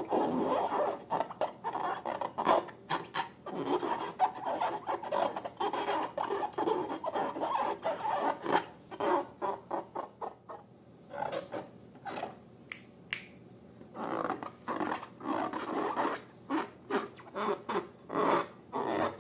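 Rapid, irregular rubbing and scratching sounds that thin out briefly about ten seconds in.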